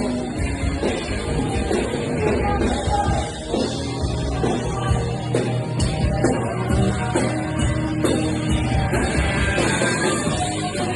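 Rock band playing a song live, with a steady drum beat.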